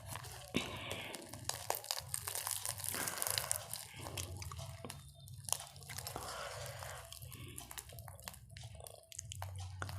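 A person chewing and crunching food close to the microphone, with wet mouth sounds and many small irregular clicks.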